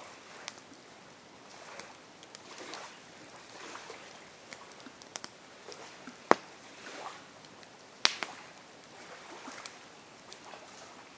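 Campfire crackling, with scattered sharp pops and snaps from the burning wood; two of the snaps, a little past the middle, are much louder than the rest.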